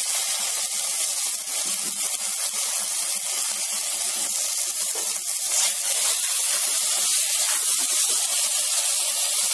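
Oil sizzling with a steady hiss as shallots, garlic and a dollop of ginger-garlic paste fry in a pressure cooker; a spatula starts stirring the paste in near the end.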